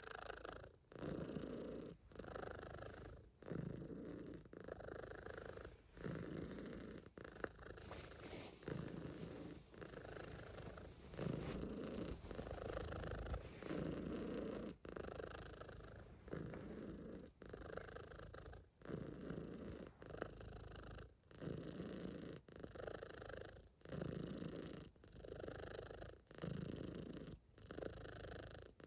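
Calico cat purring steadily, the purr breaking briefly with each breath, about once a second.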